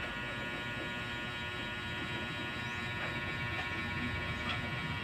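A small electric motor humming steadily, a buzzing whine of many even tones with no change in speed.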